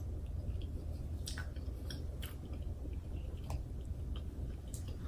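Close-miked chewing of boiled red potato: soft, wet mouth sounds and small clicks over a steady low hum.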